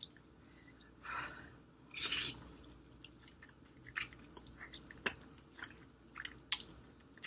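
Close-miked mukbang eating of spicy instant ramen noodles: wet chewing and slurping, with a few sharp light clicks.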